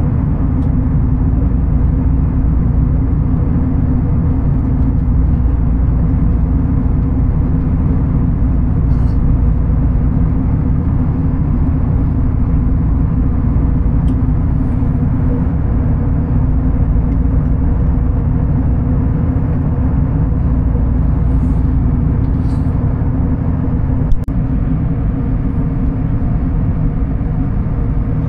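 Steady, loud low rumble of a vehicle's running engine and motion heard from inside, with a single sharp click near the end.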